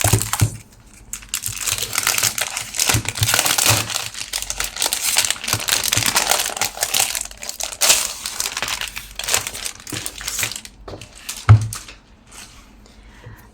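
A pack of scrapbooking cardstock and its packaging being handled and opened: continuous crinkling and rustling, with one sharp knock about eleven and a half seconds in, then quieter handling.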